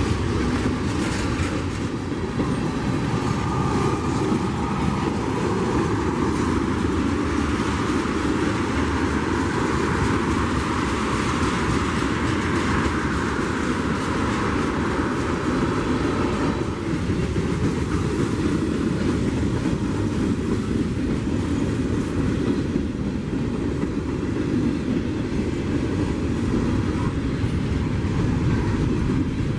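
Freight train rolling steadily past on the rails, the continuous noise of its cars and wheels going by.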